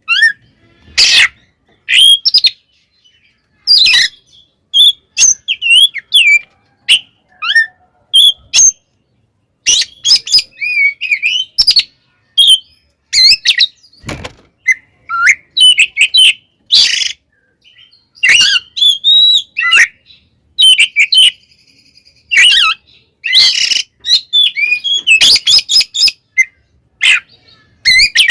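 Oriental magpie-robin (kacer) singing fast, varied phrases of whistles and chirps, broken now and then by loud, harsh rasping notes. This is the bird's aggressive fighting song, the kind used to provoke rival magpie-robins into singing.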